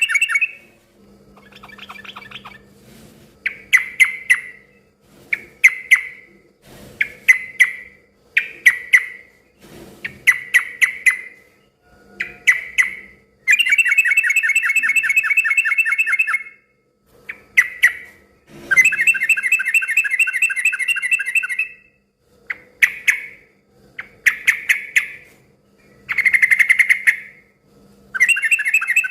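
Yellow-vented bulbul (trucukan) giving loud, rapid chattering calls in bursts. Long runs of about three seconds alternate with short, sharp phrases of a second or so, repeated with brief pauses.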